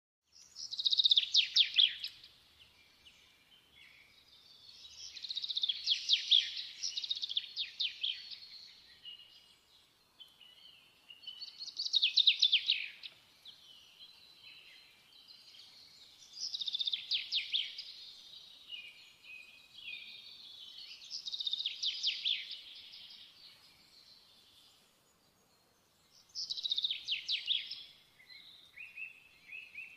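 A songbird singing: high chirping phrases with fast trills, each a couple of seconds long, repeated about every five seconds with quiet gaps between.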